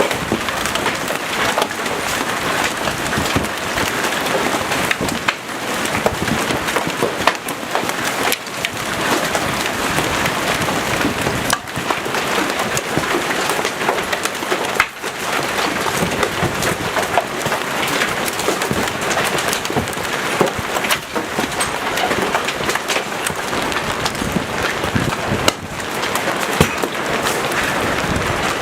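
Hail and heavy rain pelting a vehicle: a dense, steady clatter with many sharper strikes throughout.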